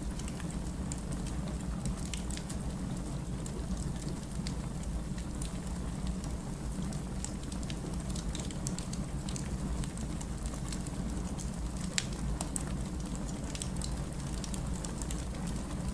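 Burning firewood: a steady low rumble of the fire with scattered small crackles and pops throughout, and one sharper pop about twelve seconds in.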